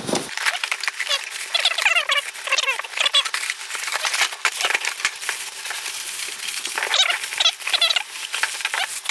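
Packaging being pulled open and handled while a grilled cheese toaster is unboxed: a busy run of rustling and crackling, with many short squeaks of packing material rubbing.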